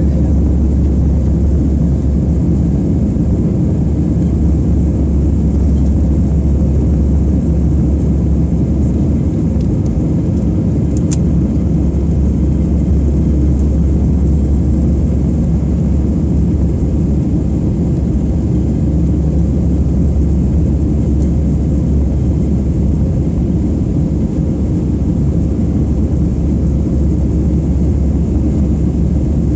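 Airbus A320 engine and airflow roar heard inside the passenger cabin after takeoff. The roar is steady and low, with a faint high whine.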